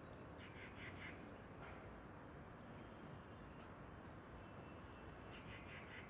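Faint steady hiss with a bird calling in two short bursts of three or four quick notes, about half a second in and again near the end, with a single note between.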